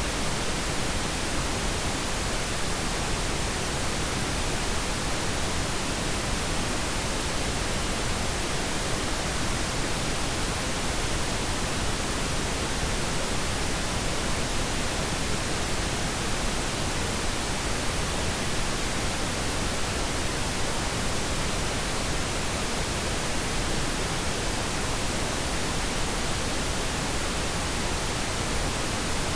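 Steady pink noise: an even, unbroken hiss across all pitches, softer in the highs than white noise.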